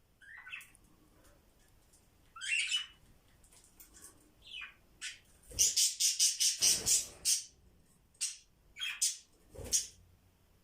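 Pet budgies chirping and squawking in short, separate calls, then a loud run of rapid, harsh chatter about halfway through, followed by a few more squawks.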